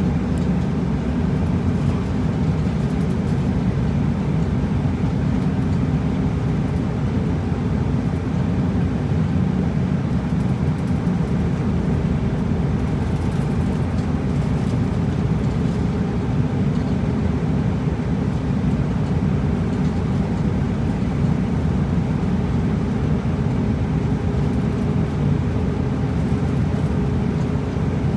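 Route bus running along the road, heard from inside the cabin: a steady low drone of engine and road noise.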